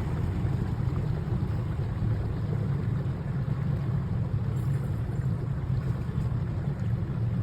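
A boat's engine running steadily underway, a constant low drone with a rushing haze of wind and water over it.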